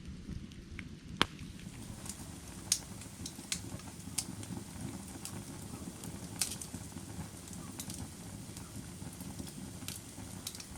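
Firewood burning: a steady low rumble of flames with irregular sharp crackles and pops, the loudest pop about a second in.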